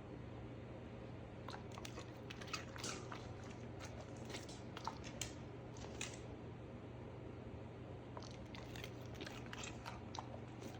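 Crunchy biting and chewing of raw vegetables: irregular crisp crunches over a steady low hum.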